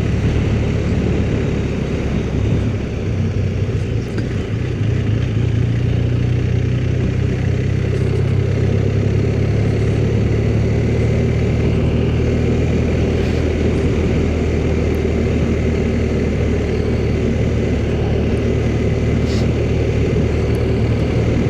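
Motorcycle engine running steadily at cruising speed with a low drone, over an even rush of wind and road noise. The drone grows a little stronger about six seconds in.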